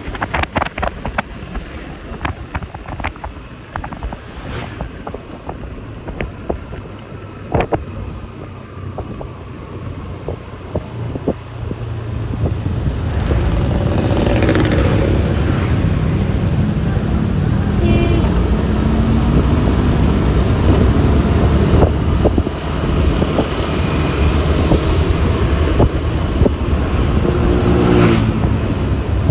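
Road noise heard from a moving Yamaha Lexi LX 155 scooter: wind buffeting the microphone over the scooter's single-cylinder engine and tyre noise, with a few short clicks and rattles. The rumble gets much louder about twelve seconds in and stays loud.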